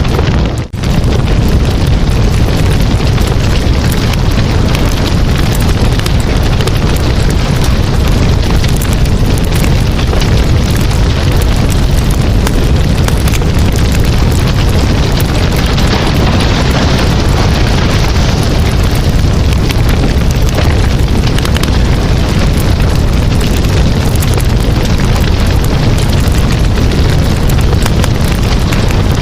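Campfire burning close up: a steady, loud rumbling roar of flames with frequent small crackles and pops. The sound cuts out briefly under a second in, then carries on unchanged.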